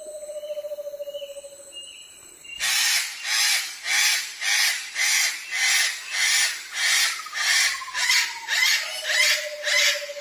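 Birds calling: a low, wavering whistle slides slowly down, with short high notes above it. Then, a few seconds in, a loud harsh rasping sound starts and repeats about twice a second. A falling whistle and the low sliding whistle sound again beneath it.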